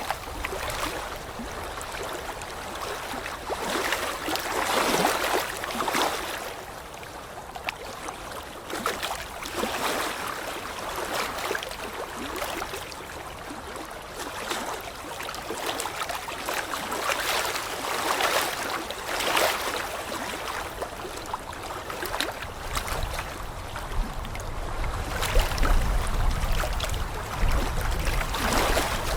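Flowing water rushing in swells that rise and fall every few seconds, with a low rumble coming in near the end.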